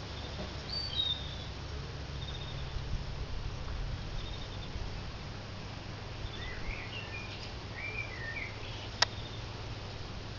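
Small garden birds chirping and singing, with short high chirps at first and warbling phrases later, over a steady low rumble. One sharp click about nine seconds in.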